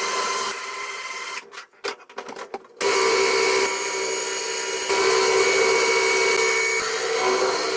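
Electric drill running under load in long trigger pulls, stopping and stuttering in short bursts about one and a half to three seconds in before running steadily again, as it bores at a microwave's security screw for lack of a security bit.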